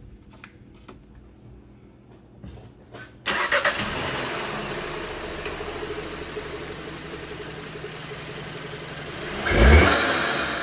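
A 2016 Volkswagen Passat's turbocharged four-cylinder TSI engine, fitted with an Injen cold air intake, starts about three seconds in and settles into a steady idle. Near the end it is briefly revved, rising in pitch and getting louder.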